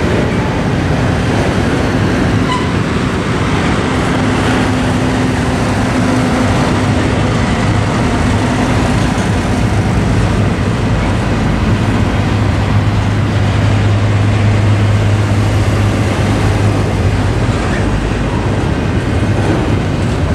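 Double-stack intermodal freight train's container cars rolling past, a steady rumble and clatter of steel wheels on rail. A low drone comes up about twelve seconds in.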